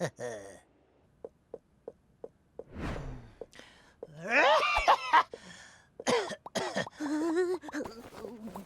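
Cartoon characters' wordless vocal sounds, exclamations and grunts with bending pitch, in a dialogue-free comedy soundtrack. A quick run of light ticking sound effects comes just after the start, a swish follows, and longer loud cries come about four and six seconds in.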